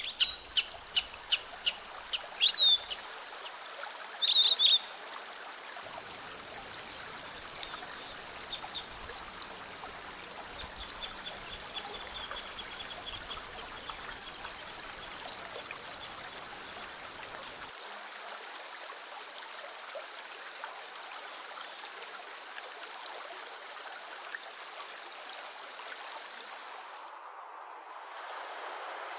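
Small wild birds calling: a quick run of sharp ticking notes, a couple of louder calls, then a series of high, thin calls, over a steady background hiss.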